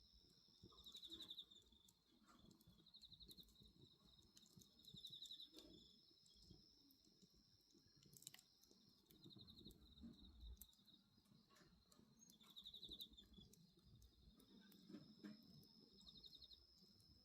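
Faint night insects: a steady high trill with short pulsed cricket chirps about every two seconds, over scattered soft crackles from a wood bonfire.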